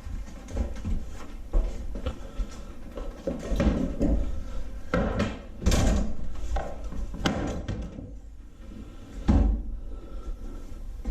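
Irregular knocks, clunks and clatter of tools and engine parts being handled, with a few heavier thumps.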